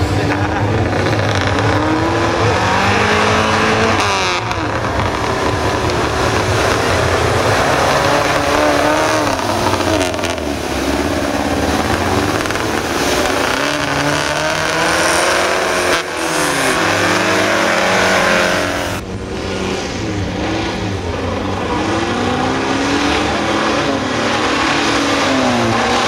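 Off-road 4x4 engines, a Lada Niva among them, revving hard as their wheels churn through deep mud, the engine note rising and falling again and again, with a few sudden changes where the sound jumps from one car to another.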